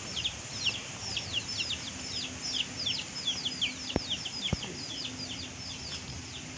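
Birds chirping: a steady stream of high, quick chirps, each sliding down in pitch, several a second. Two sharp taps come about two-thirds of the way in.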